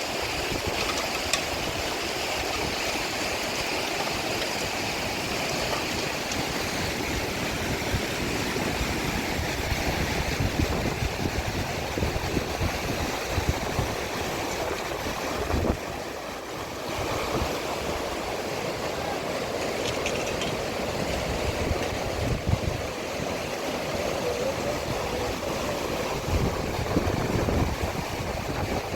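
Steady rushing water with an uneven low rumble beneath it.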